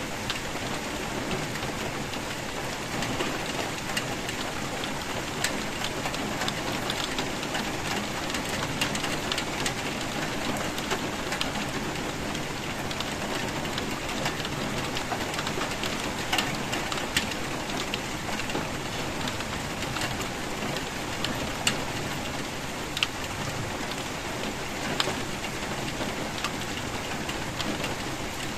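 Steady rain falling, with scattered sharper, louder drop hits standing out here and there.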